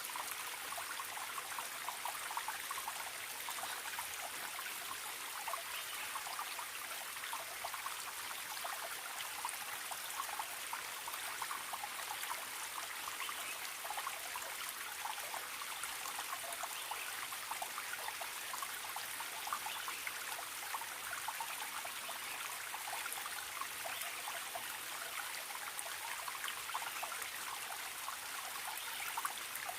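Forest stream trickling and splashing steadily over stones, a constant, bright babble of water with no pauses.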